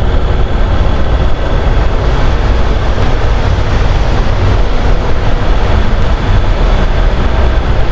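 Steady wind rush and engine noise of a Honda NC750 DCT motorcycle riding at road speed.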